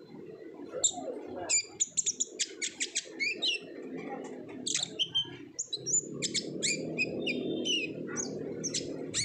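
Konin (kolibri ninja, a sunbird) singing in an excited run of rapid, high, sharp chirps and clicks, with a steady low background noise that swells in the second half.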